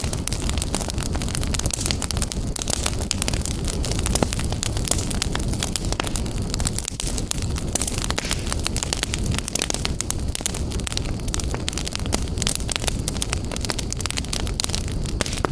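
Wood fire burning in a fireplace: a steady low rumble of flames with a dense, continuous run of sharp crackles and pops.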